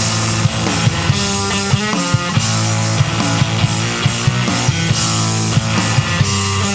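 Loud noise-rock band playing: distorted guitar and bass holding heavy low chords over a drum kit.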